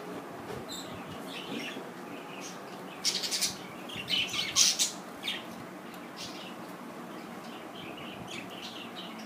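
Pet budgerigars chirping and chattering in short high calls, with louder, harsher bursts about three seconds in and again a second or so later.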